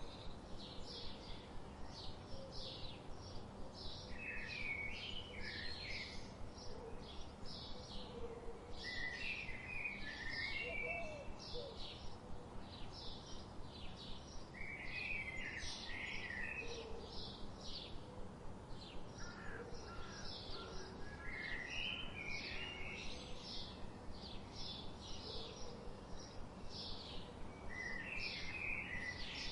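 Songbirds singing: one bird repeats short high chirps about three times a second, while another breaks in with a brief warbled phrase every few seconds, over a faint steady hiss.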